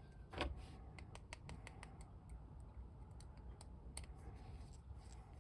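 Faint, irregular small clicks and ticks of a screwdriver driving the screw that holds a plastic action figure's body together, with a slightly louder knock about half a second in.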